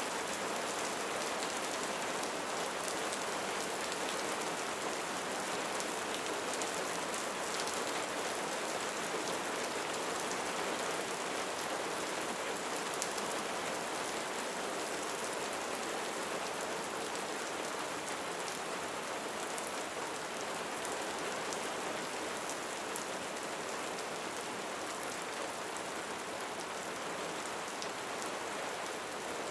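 Steady rain falling on a roof: an even, unbroken hiss with scattered sharper drop hits.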